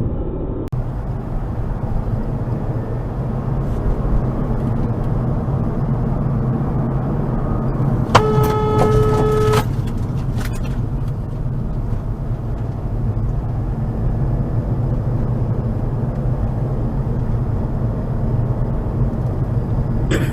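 A car driving, with a steady low engine and road hum. About eight seconds in, a car horn sounds once for about a second and a half.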